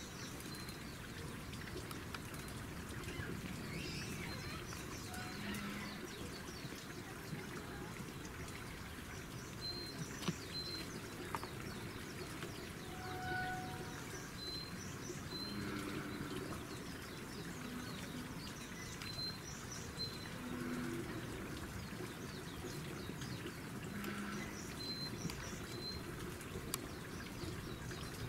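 Outdoor ambience: a bird calling in short paired high chirps every few seconds over a steady background hiss.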